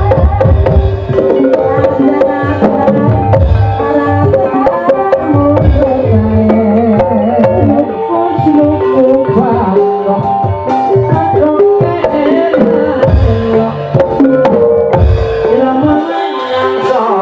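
Live ebeg gamelan music: hand-played kendang drums beating a busy, driving rhythm over held melodic tones.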